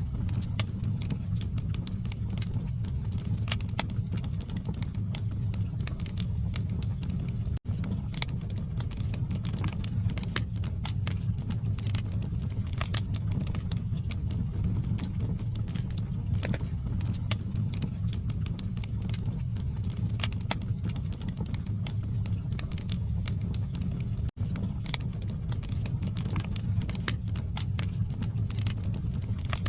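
Log fire in a fireplace burning with a steady low rumble and frequent sharp crackles and pops from the wood. The sound cuts out for an instant twice.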